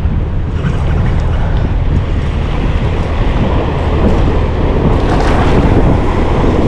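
Steady wind buffeting the microphone: a loud, continuous rushing rumble.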